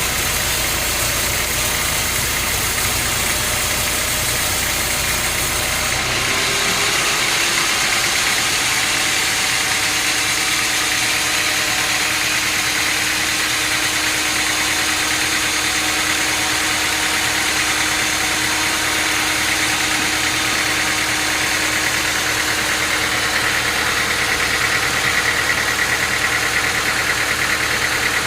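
Sawmill machinery running steadily with an engine-like hum. About six seconds in, the deep low rumble drops out abruptly and a steadier, higher hum carries on.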